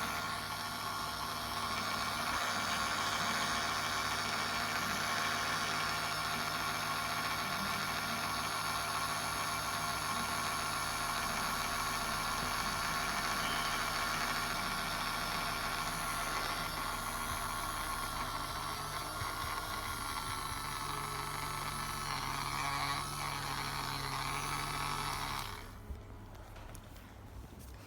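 Small electric motor of a toy washing machine running steadily, with a constant whirring hum, then switching off suddenly near the end.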